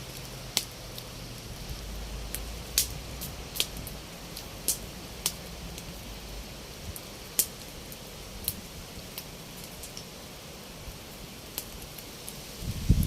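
Campfire crackling in light rain: irregular sharp pops of burning wood over a steady hiss.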